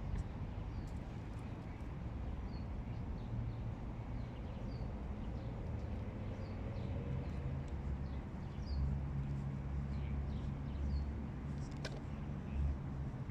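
Outdoor ambience: a steady low rumble with many short, faint high chirps of small birds scattered throughout, and a single sharp click near the end.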